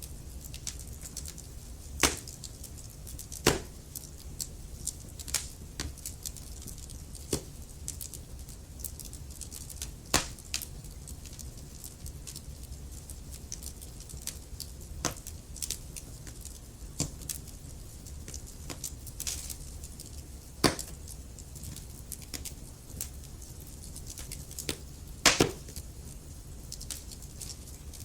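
Wood fire in a fireplace burning with a steady low rumble and hiss, broken by irregular crackles and a handful of loud pops from the burning logs.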